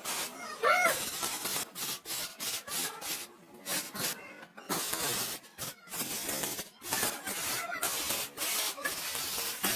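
Irregular rubbing and scraping strokes, a noisy hiss in short bursts with brief gaps between them.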